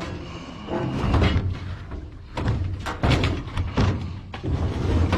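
A series of heavy thuds and clunks, about four, as bulky discarded items are moved and set down.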